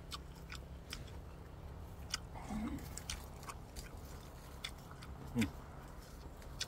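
Close-up eating sounds: chewing with scattered small wet clicks and lip smacks. Twice a short low voice sound from the eater, the second, about two-thirds of the way through, a brief falling hum and the loudest thing heard.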